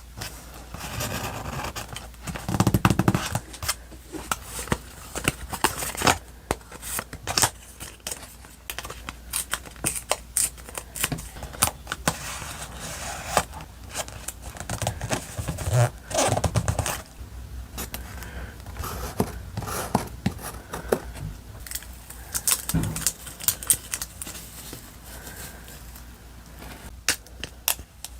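Paper and stickers being handled for journal decorating: crinkling, rustling and scraping with scattered sharp clicks and taps, and a few louder thumps, about three seconds in and again past the middle.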